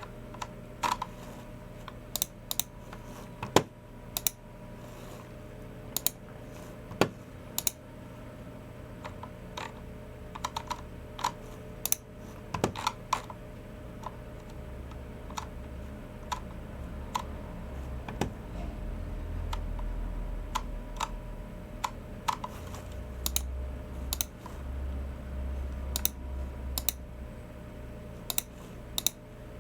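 Typing on a Logicool MX Keys Mini low-profile keyboard: irregular keystrokes in short runs with pauses between them.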